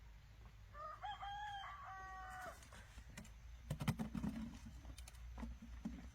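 A rooster crowing once, about two seconds long, followed by a short run of knocks and clatter about four seconds in, the loudest sound here.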